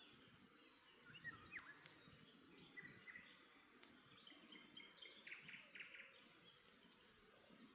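Faint birdsong: scattered short chirps and whistled glides from small birds, with a rapid trill about five seconds in, over the low crackle of a campfire and a few sharp pops.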